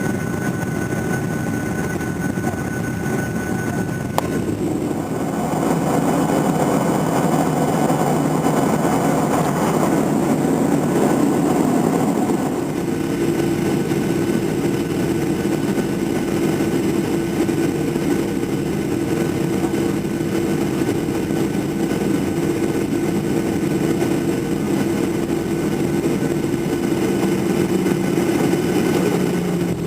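Cabin noise inside a Boeing 737-800 airliner: its CFM56 jet engines and the airflow make a steady, loud rush. There is a sharp click about four seconds in, after which the sound changes. From about a third of the way through, a steady hum of engine tones joins the rush.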